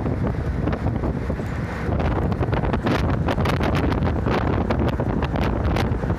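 Ride noise inside a moving route bus: a steady low rumble with wind buffeting the microphone. From about two seconds in it gets brighter, with many quick rattling clicks.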